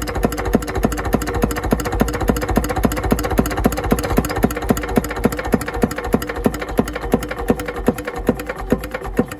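Andoria S15 single-cylinder diesel engine running steadily, each firing stroke an even, sharp knock in a regular beat over a low rumble.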